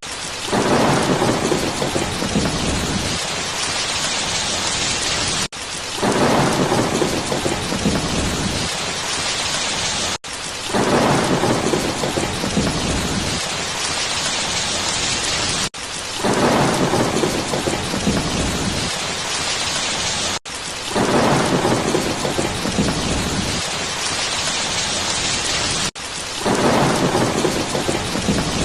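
Steady heavy rain hiss with a low rumble of thunder about every five seconds. It is the same short rain-and-thunder recording looped, with a brief dropout at each seam.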